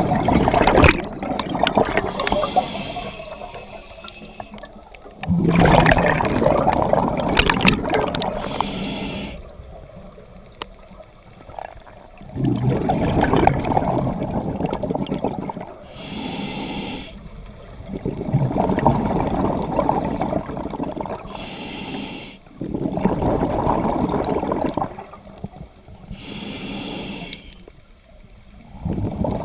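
A scuba diver breathing through a regulator underwater. Short hissing inhalations alternate with longer bursts of bubbles on each exhalation, about five breaths in slow rhythm.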